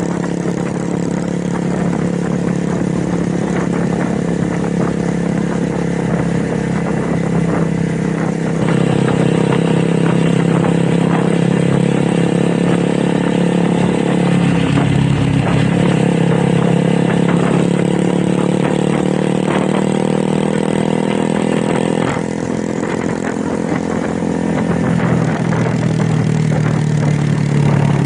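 Motorcycle engine and exhaust running under way, with the engine note dropping about halfway through and climbing again afterwards.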